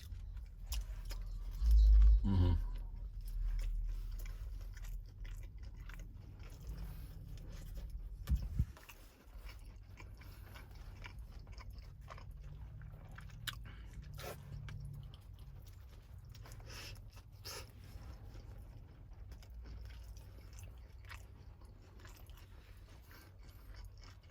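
A person chewing a bite of a grilled tuna melt sandwich on toasted Italian bread, with crunching and wet mouth clicks close to the microphone. A brief loud low thump about two seconds in.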